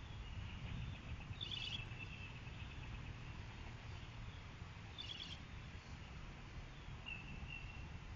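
Short high bird calls, twice, about three and a half seconds apart, with a fainter one near the end, over a faint steady high chirring and a low rumble.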